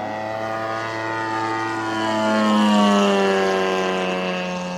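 Zenoah GT80 twin-cylinder gasoline engine of a giant-scale RC model warplane running in flight with a steady propeller drone. It grows louder to a peak about halfway through, then its pitch drops and it eases off a little.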